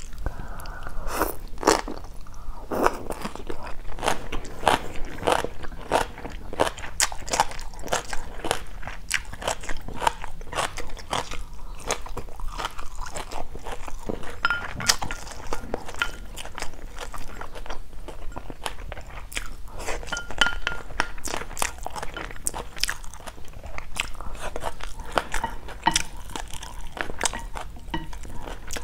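Close-miked chewing and crunching of a mouthful of stir-fried water spinach, then rice and fried salmon: a quick, irregular run of crisp crunches with the softer sounds of chewing between them.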